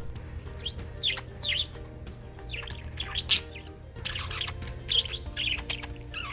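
Male pet budgie (budgerigar) chirping and chattering: a string of short, quick high chirps that slide up and down.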